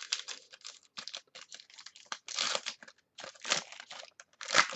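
Trading card packaging and cards being handled: a run of short crinkles and clicks, with three louder rustling bursts in the second half.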